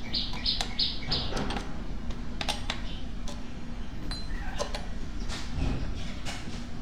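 A steady low hum under scattered clicks and metal clinks, with a quick run of about five high chirps in the first second and a half.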